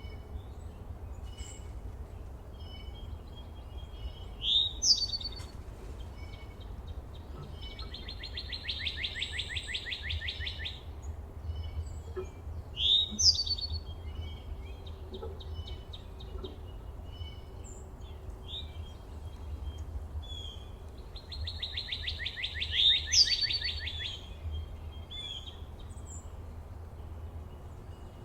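Songbirds singing and calling. A fast, even trill lasts about two and a half seconds, once about 8 s in and again near the end. Between the trills come sharp, down-slurred notes and scattered chips, over a steady low rumble.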